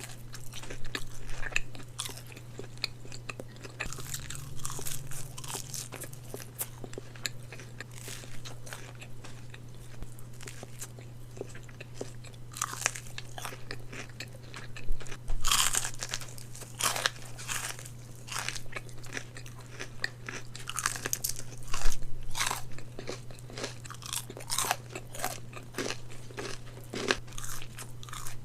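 Close-miked eating of a Raising Cane's fried chicken meal: irregular crisp bites and crunchy chewing, with louder crunches about a quarter and three quarters of the way through, over a steady low hum.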